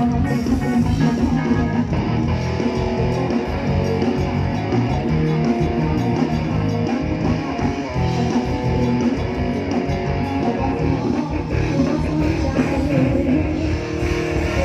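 Live band playing an instrumental passage led by guitar, with bass guitar underneath.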